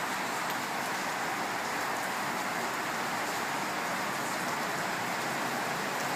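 Steady rain falling, an even hiss with no letup or change.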